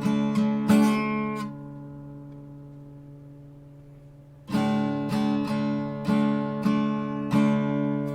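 Steel-string acoustic guitar, an Art & Lutherie Wild Cherry, being strummed: a few chord strums, then a chord left ringing and fading for about three seconds, then steady strumming resumes about halfway through.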